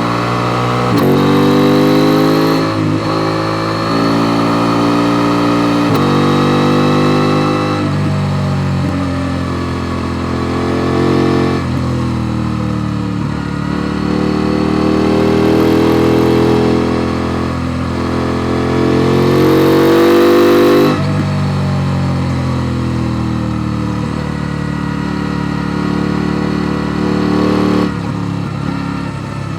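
KTM Duke 890 R's parallel-twin engine pulling hard up a mountain road. Its note rises under throttle and drops back at each of several gear changes or throttle lifts.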